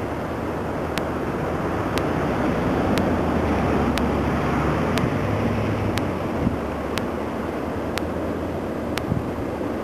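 Ocean surf with wind buffeting the microphone: a steady rush of breaking waves that swells to a louder surge a few seconds in, then eases.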